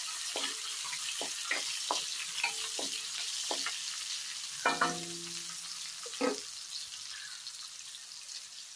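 Chopped onions and green chillies sizzling in hot oil in a kadai, with a spatula scraping and knocking against the pan as they are stirred. The stirring noises stop for the last couple of seconds while the sizzle goes on.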